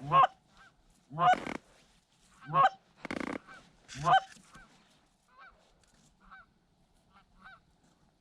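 Canada goose honking: four loud honks in the first four seconds, then quieter, shorter honks and clucks.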